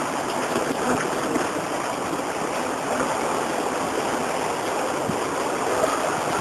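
Heavy rain pouring down in a squall-line thunderstorm: a steady, even rushing.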